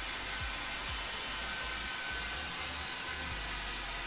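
Panasonic hair dryer running steadily, an even rush of air with a thin high whine.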